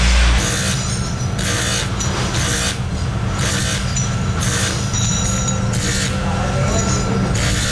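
Workshop machine running with a steady low hum, making a short hissing or scraping stroke about once a second.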